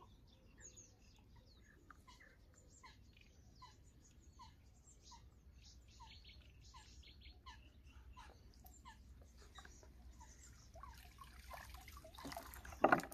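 Faint birdsong, one bird repeating a short chirp about twice a second among other scattered chirps. Near the end, water splashes and streams off a cast net as it is lifted out of the pond.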